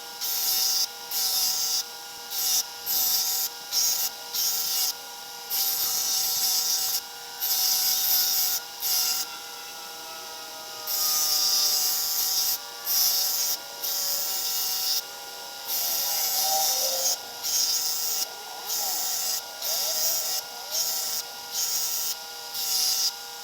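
Electric grinder running steadily while a steel drawknife blade is pressed to it in repeated short passes, each pass a burst of harsh grinding noise with brief gaps between. It is grinding in the blade's bevels.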